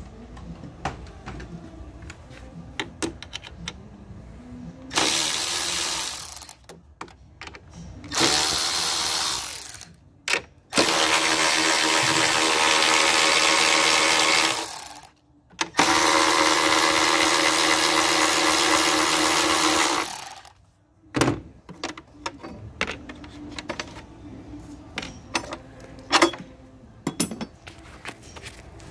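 Handheld power tool running in four bursts of a few seconds each, between about 5 and 20 seconds in, a steady whirring with hiss. Scattered clicks and knocks of tools and parts come before and after.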